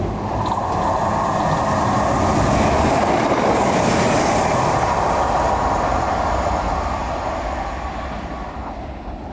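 CrossCountry Class 170 Turbostar diesel multiple unit passing through the station at speed: the rush of the train builds to its loudest about three to four seconds in, then fades away.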